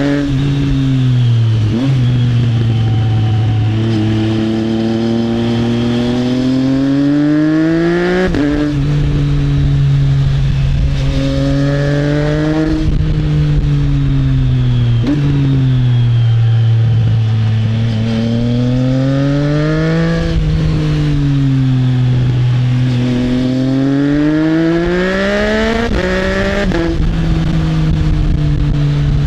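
Triumph Trident 660's inline three-cylinder engine through an Arrow exhaust, its pitch rising and falling as the rider accelerates and eases off. About four times the pitch drops suddenly in quick upshifts, typical of a quickshifter. A steady rush of wind and road noise runs underneath.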